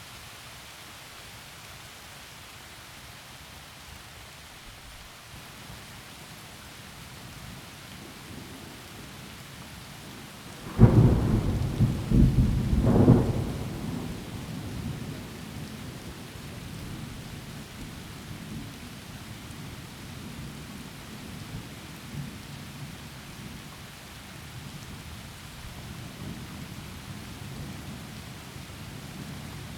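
Steady rain falling, broken by a sudden loud thunderclap about eleven seconds in and a second crack about two seconds later. The thunder then rumbles low under the rain for the rest of the time.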